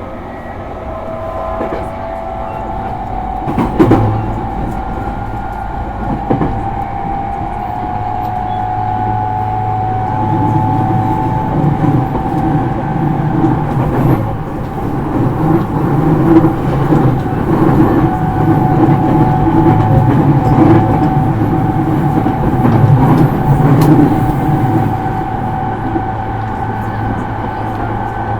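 E231 series electric train heard from inside its motor car: the traction motor whine climbs slightly in pitch over the first seconds, with a couple of sharp knocks. Then the rumble of the wheels on the rail grows louder and rhythmic, with a steady low hum underneath.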